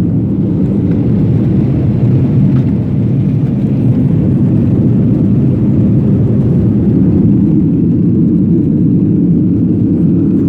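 Airliner cabin noise during the climb after takeoff: a steady, loud, low rumble of engines and airflow, with no change in level.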